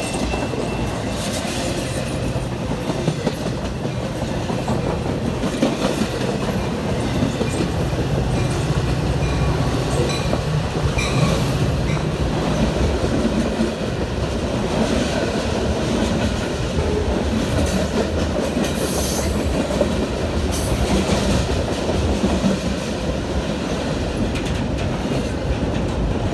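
A train rolling past close by, a steady rumble of wheels on the rails with a few sharp clicks in the second half.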